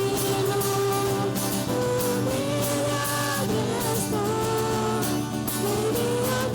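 Live band playing a worship song, with a singer holding long notes over the accompaniment.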